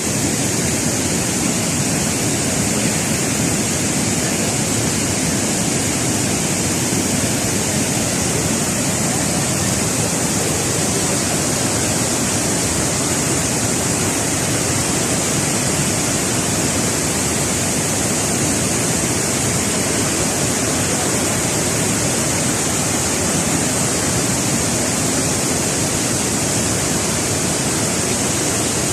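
Waterfall cascades rushing steadily: a constant, even hiss of falling water that does not change.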